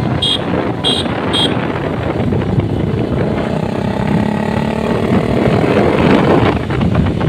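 Motorcycle engine running on the road under heavy wind and road noise, with three short high beeps about a second into it.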